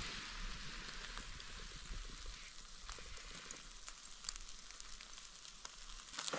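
Beef tomahawk steak searing over campfire flames: a steady sizzling hiss with scattered sharp crackles.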